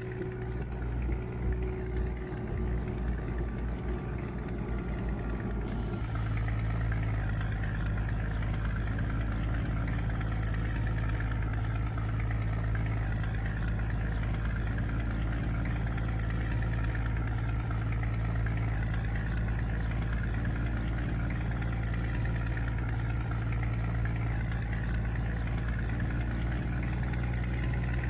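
Scania G124 truck's diesel engine running at a steady, deep hum. About six seconds in, the sound changes abruptly to a slightly louder, even drone.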